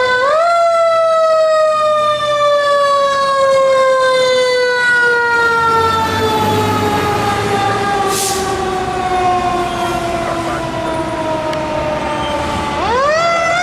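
Fire engine siren wailing. Its pitch rises sharply about half a second in, falls slowly for about twelve seconds, then climbs again near the end.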